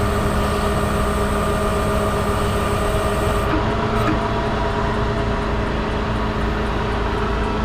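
Cummins diesel engine of a Ram 5500 bucket truck running steadily to power the hydraulics while the Versalift aerial boom is moved slowly; a steady hum with a high hiss that drops away about three and a half seconds in.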